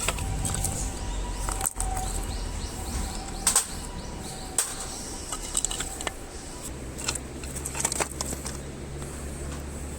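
Campfire crackling while it catches, with scattered sharp pops and snaps over a low fluttering rumble of flame; one louder pop comes about three and a half seconds in.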